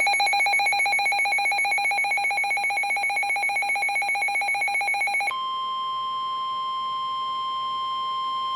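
Weather alert receiver sounding its warning alarm: a rapidly pulsing alert tone that, about five seconds in, switches abruptly to a steady single-pitch tone, the NOAA Weather Radio 1050 Hz warning alarm that comes before a special marine warning broadcast.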